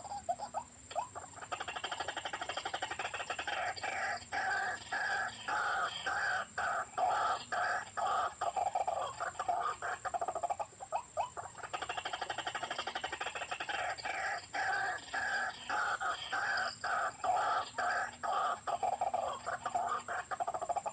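White-breasted waterhen calls: long runs of rapid repeated notes in two bouts, with a short break about ten seconds in.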